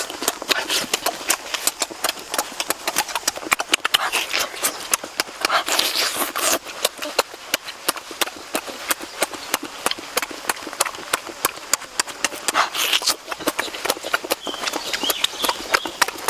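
Rapid, wet lip-smacking and chewing of children eating fire-cooked fish with their hands, many quick clicks every second.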